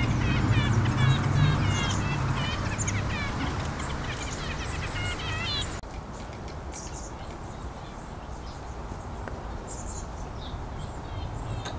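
Small birds chirping, many short repeated calls in quick succession. About six seconds in, a cut brings fainter, higher, more scattered chirps.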